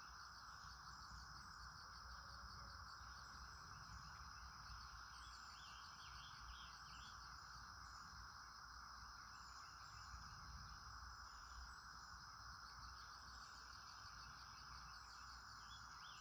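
Faint outdoor ambience: a steady drone of insects, with brief bird chirps a few times.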